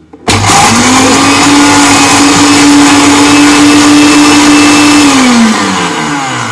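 Philips countertop blender chopping red chilies, switched on with a sudden start and running at a steady high speed for about five seconds. It is then switched off and winds down, its pitch falling. The short run is meant to leave the chili paste coarse, not fine.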